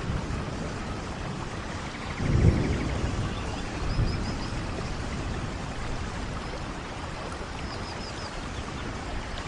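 Steady rainfall with a brief low rumble about two and a half seconds in and a smaller one a moment later. Faint high chirps come in short runs twice.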